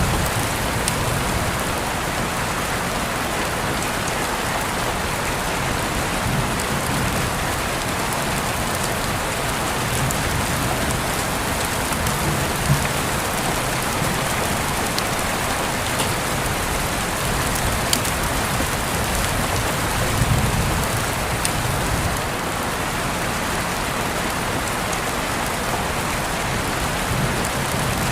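Steady rain falling, an even hiss with occasional sharper drop ticks, and a brief low rumble about twenty seconds in.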